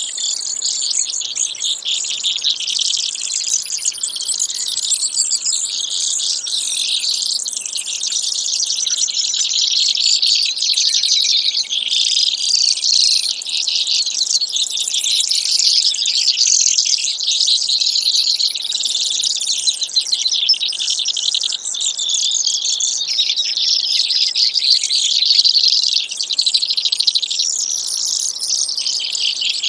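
Brewer's sparrow song: long, rapid, high-pitched trills that run on without a break.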